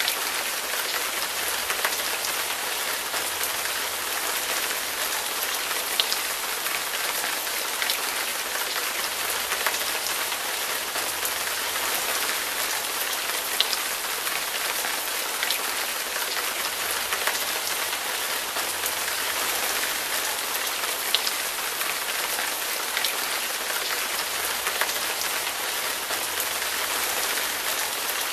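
Hard rain falling steadily, a dense even patter with now and then a single sharper drop striking close by.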